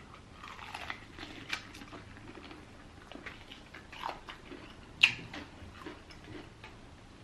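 Biting into and chewing honey-drizzled Popeyes fried chicken: wet chewing with scattered sharp crunches of the crust, the loudest a little past halfway.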